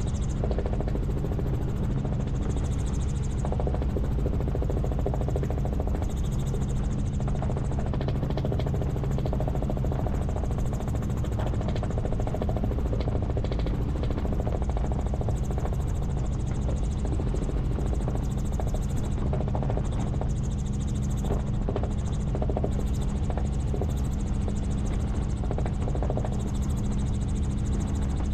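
Helicopter in flight: the rotor and engine make a steady, unbroken drone with a strong low hum.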